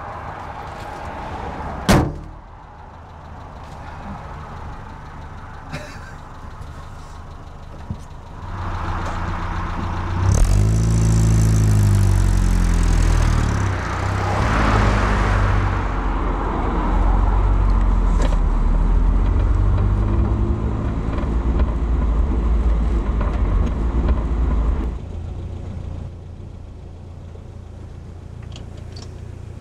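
A single sharp thud about two seconds in, then an old four-wheel-drive's engine starting: a short spell of cranking, catching about ten seconds in, and revving up and down as the vehicle pulls away trailing exhaust smoke. It runs loudly until it drops away suddenly about five seconds before the end, leaving a low rumble.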